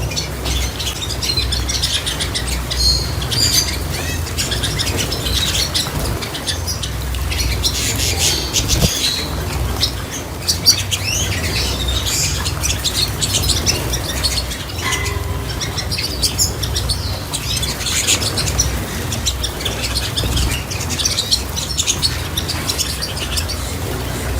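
Small cage birds chirping and calling over and over, with quick wing flutters, over a steady low rumble.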